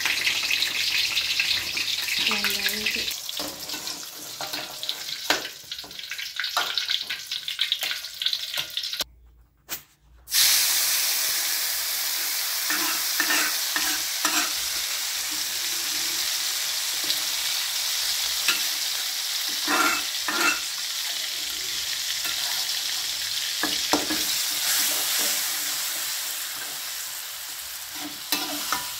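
Eggplant pieces sizzling in hot oil in an aluminium wok; after a brief break about ten seconds in, ground spice paste sizzles more strongly in the wok while a spatula stirs and scrapes it around, with a few short scrapes and knocks of metal on metal.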